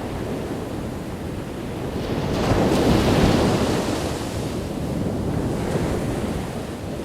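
Ocean waves breaking on a beach, one wave swelling to a crash about two to three seconds in and then washing back, with wind buffeting the microphone.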